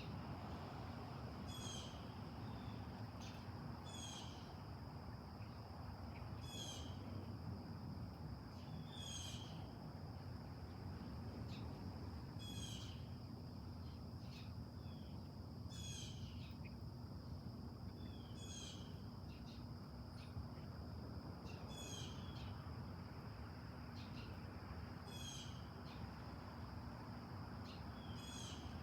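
A bird calling over and over, one short note sweeping downward every couple of seconds, over a steady high insect buzz and a faint low rumble.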